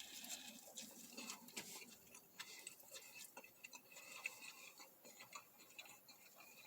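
Faint, irregular small clicks and soft mouth sounds of a person chewing food, barely above near silence.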